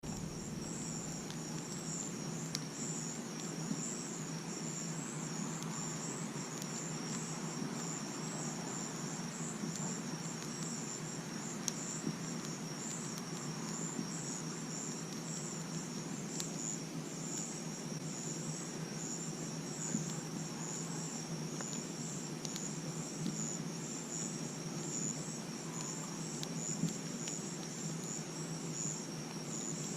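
Crickets chirping steadily in a high, pulsing trill over a campfire, with a scattering of sharp crackles and pops from the fire.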